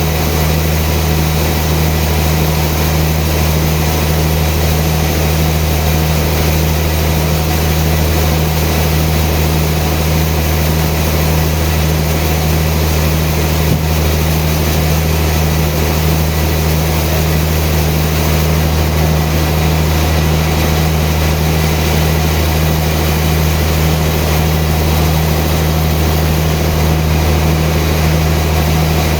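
Sawmill machinery running steadily: a constant, unchanging low hum.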